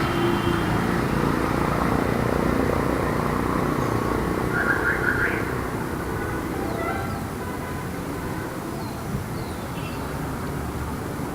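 Light city traffic: a steady rumble of passing vehicles that eases off after about six seconds, with a few short high-pitched chirps near the middle.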